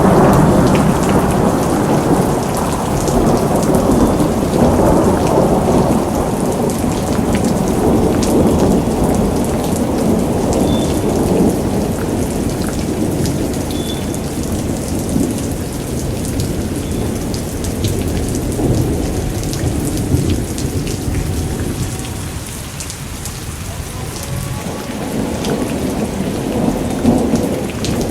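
Rain falling steadily with a continuous low rumble of thunder beneath the patter of drops; the rumble eases a little past the twenty-second mark and swells again near the end.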